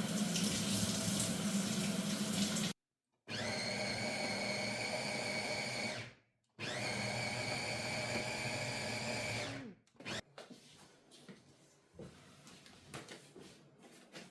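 A small electric motor running with a steady whine, stopping twice and starting again, then winding down near the end, after which only a few light clicks and taps remain.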